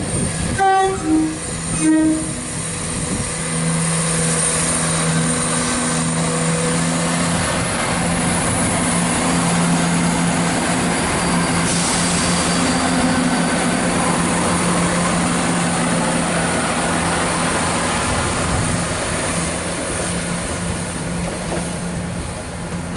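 Chiltern Railways class 168 diesel multiple unit: a few short horn notes in the first two seconds, then its underfloor diesel engines running steadily under power as the train moves.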